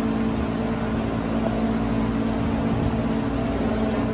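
Steady mechanical hum: a loud low drone of several held tones over a noisy rush, cutting off suddenly at the end.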